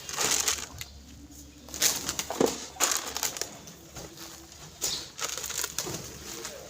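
Birds being hand-fed: irregular bursts of rustling and scuffling, a little under a second each, as they flap and scramble at the feed.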